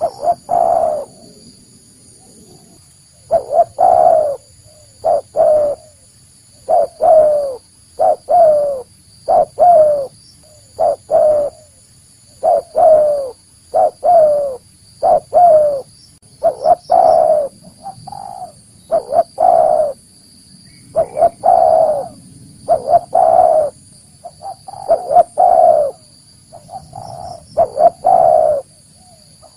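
Spotted dove cooing over and over in short repeated phrases of soft, low, falling notes, the call used as a lure to draw in wild doves.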